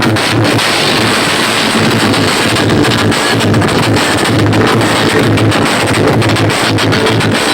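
Very loud music from large sound-system rigs, distorted and overloading the microphone, with a heavy pulsing bass.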